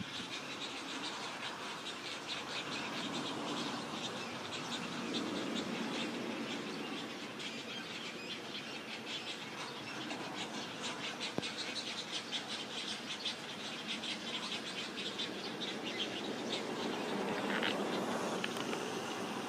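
Small birds chirping, a rapid run of short, high chirps that carries on through most of the stretch over steady outdoor background noise.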